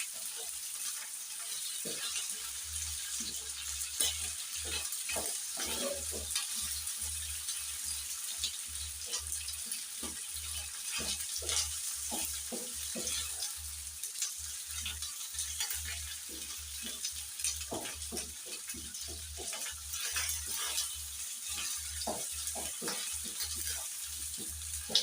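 Chicken gizzards frying in oil with onions, ginger and garlic, a steady sizzle, while a spoon stirs them and knocks and scrapes against the pot many times.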